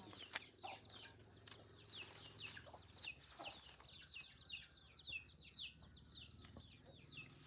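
Small birds chirping: many short, high peeps that fall in pitch, several a second, over a faint steady high whine.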